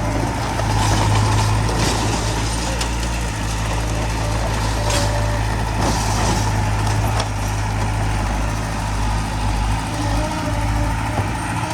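Heavy diesel construction machinery running steadily under load, a deep engine hum with scattered metallic clanks and rattles.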